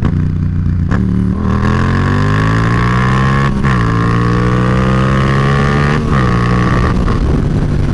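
Yamaha FZ-07 (MT-07) parallel-twin engine under hard acceleration, its pitch climbing steadily and dropping back at each of three upshifts, about one, three and a half and six seconds in, then falling as the throttle eases near the end. A steady rush of wind runs underneath.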